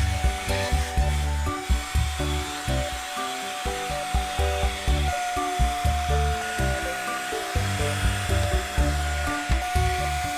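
Background music over a steady whirring motor with a constant whine, a handheld cordless mini vacuum cleaner running.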